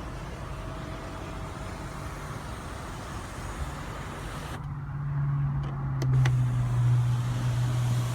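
Steady cabin background, then about halfway through a low electric-motor hum starts and shifts to a slightly lower pitch after a faint click a second later: the power twin-panel sunroof of a 2016 Ford F-150 being run.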